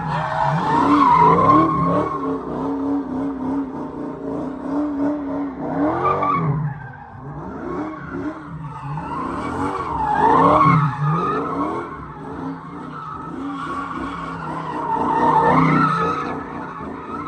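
A car engine revving up and down while its tires squeal and skid, in repeated swells, loudest three times: near the start, about ten seconds in and near the end.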